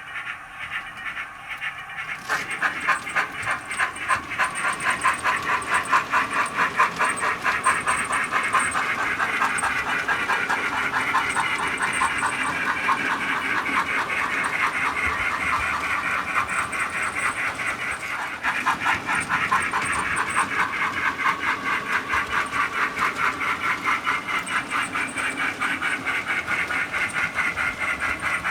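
Soundtraxx Econami UK steam sound decoder in a Hornby BR Class 9F model locomotive, playing a steady run of rapid steam chuffs with hiss through a small speaker. It gets louder about two seconds in.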